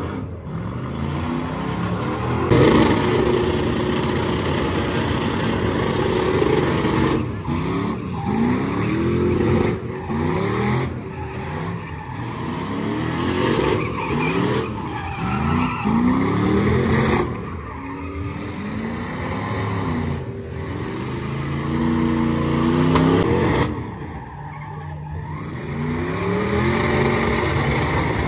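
Vehicle engine revved hard again and again, its pitch climbing and dropping back every second or two over a steady rush of noise.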